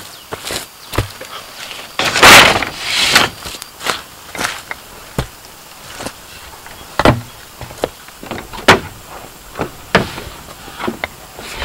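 Irregular sharp knocks and whacks from work on bamboo, with a longer rasping burst about two seconds in.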